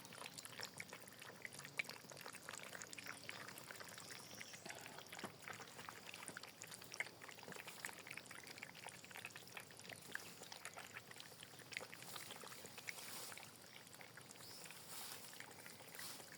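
Puppies lapping and slurping porridge: a faint, continuous run of small wet smacks and licks.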